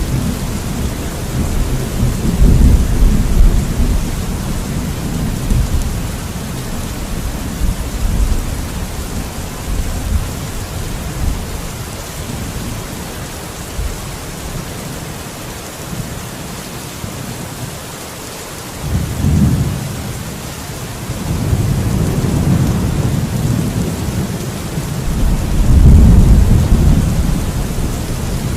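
Steady heavy rain with rolling thunder: low rumbles that die away past the middle, then a new roll builds about 19 seconds in and is loudest near the end.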